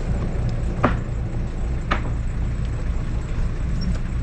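A boat's engine running steadily with a low hum, and two sharp knocks about one and two seconds in.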